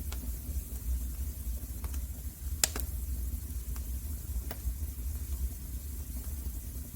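Wood fire crackling in a fireplace: scattered sharp pops and snaps, the loudest about two and a half seconds in, over a steady low rumble.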